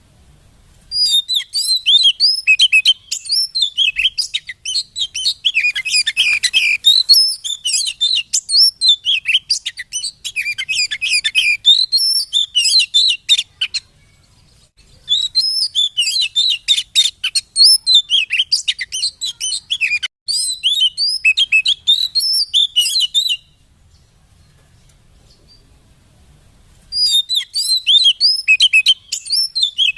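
Oriental magpie-robin (kacer) singing: fast, dense runs of high chirps and whistles in three long bouts, with short pauses about 14 and 23 seconds in.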